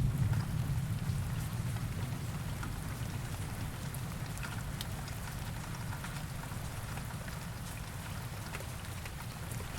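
Heavy rain falling steadily, with scattered sharp drop hits. The last of a thunder rumble dies away right at the start.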